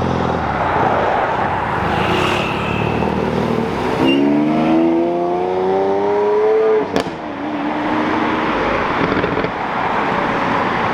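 A car leaving under hard acceleration. Its engine note climbs steadily in pitch for about three seconds, from about four seconds in, then cuts off abruptly. Other car engine and road noise runs underneath.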